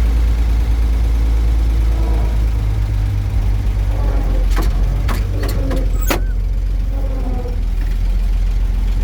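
1937 International truck's engine running with a steady, heavy low rumble. A few sharp clicks or clunks come about halfway through.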